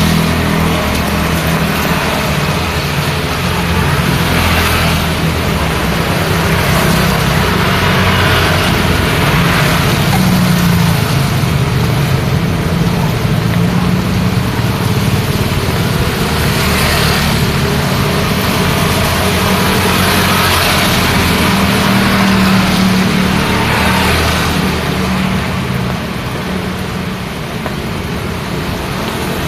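Steady road traffic in the rain: cars and motorbikes passing one after another, their engines humming over a constant hiss of rain and wet tyres.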